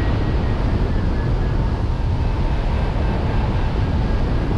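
Steady, deep rush of wind buffeting the microphone of a hang glider in flight.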